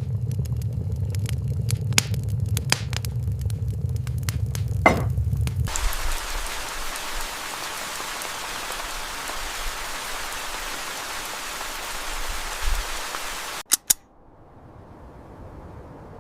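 Steady rain hiss for about eight seconds, cutting off suddenly near the end. Before it comes a low rumble with scattered sharp crackles and clicks.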